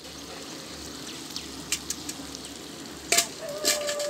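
Masala and freshly added chopped tomatoes sizzling in a large aluminium biryani pot over a wood fire: a steady frying hiss with a few sharp clicks, and a short steady tone near the end.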